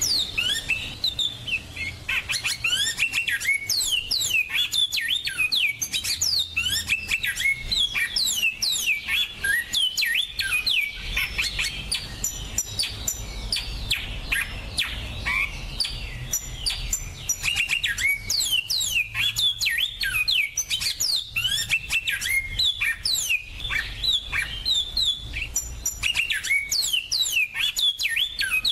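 Small finches singing without pause: a dense stream of rapid, overlapping chirps and trills, with the songs of more than one bird layered together.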